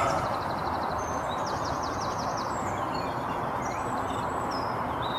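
Small birds chirping and trilling, with quick runs of repeated high notes, over a steady background rush.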